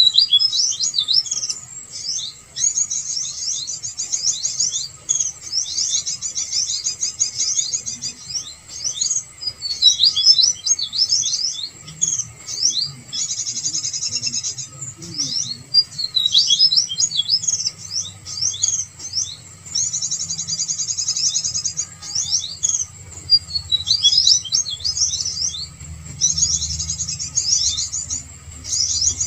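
Small birds chirping and trilling: quick high-pitched sweeps and rapid trills in busy phrases of a second or two with short gaps, a pikat lure call for drawing small birds in.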